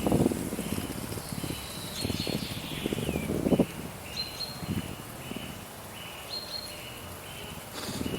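Wind gusting in uneven bursts of low rumble, with a steady run of short, high repeated chirps over it and one falling chirp about three seconds in.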